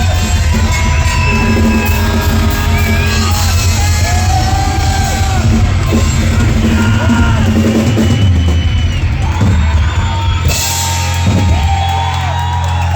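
Live rock band playing loudly: drum kit, amplified instruments with a heavy bass, and singing.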